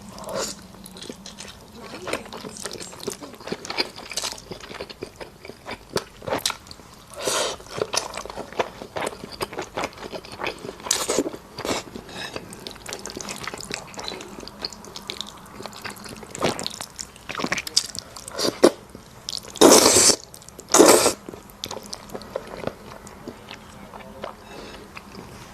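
Close-up eating sounds: chewing and wet mouth noises of noodles and dumplings, with many small clicks and a few louder bursts, the loudest two near the end.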